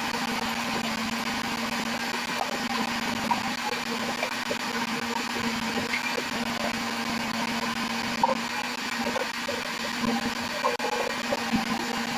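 A steady mechanical hum from a running motor, holding one low tone over a constant noisy whir, with small scattered sounds on top.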